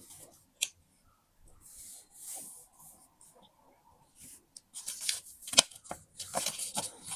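Paper being handled and cut with scissors: scattered soft rustles, slides and single clicks, then a busier run of quick snips and paper crinkles in the second half.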